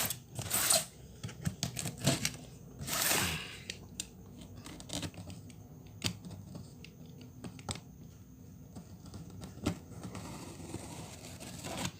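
Sealed cardboard box of a loudspeaker being opened by hand: short tearing rasps of the seal or tape, the two loudest about half a second and three seconds in, then scattered clicks and scrapes of handling the packaging.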